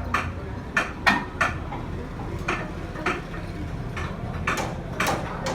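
Metal tools striking steel parts: about ten irregular metallic clanks, each ringing briefly, over a steady low hum.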